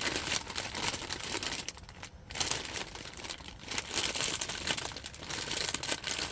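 Irregular crinkling and rustling with short crackles as shimeji mushrooms are handled and broken apart; it eases briefly about two seconds in.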